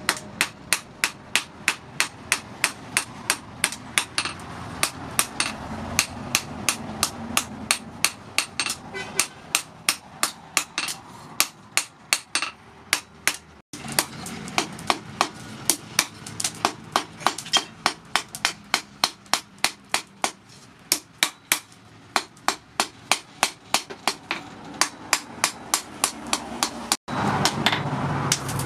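Hand hammer striking a red-hot steel knife blank, cut from a tractor disc plough, on a steel post anvil as the blade is forged: a steady run of sharp metallic blows, about two to three a second. The hammering stops shortly before the end.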